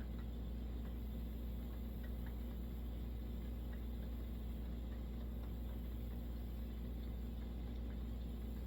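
Steady low hum of room tone with a few faint small ticks.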